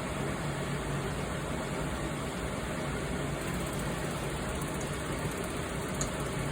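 Rinnai RDT-62 gas clothes dryer running, its motor and belt-driven drum giving a steady hum. The drive belt is stretched and loose, slipping on the drum, which the owner found to be the cause of the dryer's abnormal noise.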